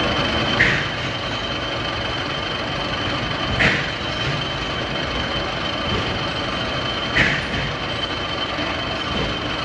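Metalworking factory machinery running steadily with a constant whine, with three short, sharp bursts evenly spaced about three and a half seconds apart, as of a repeating machine cycle.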